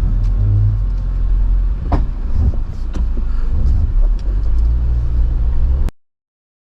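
Jeep Wrangler engine running at low revs while crawling a rocky off-road trail, with a few sharp knocks and clunks, the loudest about two seconds in. The sound cuts off abruptly about six seconds in.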